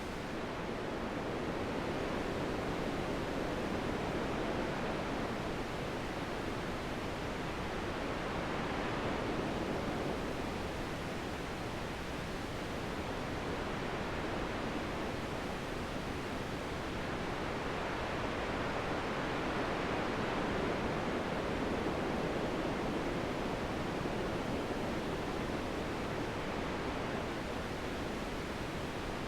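Steady wind, a smooth rushing noise that slowly swells and eases.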